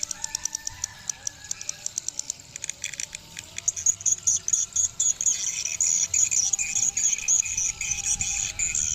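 Swiftlets twittering with rapid clicks, the high chirping growing denser and louder about halfway through.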